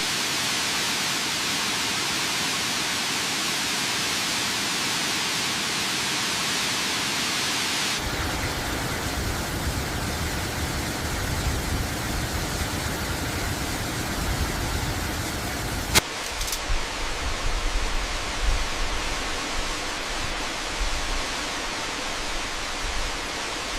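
Steady rushing of a waterfall. The sound changes abruptly twice, about a third and two thirds of the way in, turning deeper and less even, with a sharp click at the second change.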